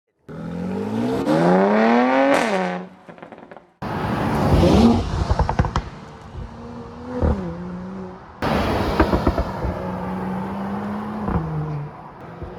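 Mercedes-AMG GLE 53's turbocharged 3.0-litre inline-six through its Performance Exhaust, in short clips cut together. In the first it revs up steeply and falls back. In the next two it blips and holds a steady note, with sharp crackles and pops from the exhaust.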